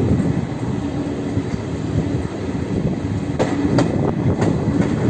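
Passenger train running along the track, a steady rumble of wheels and carriage with an on-and-off hum. A few sharp clacks come in quick succession about three and a half to four and a half seconds in.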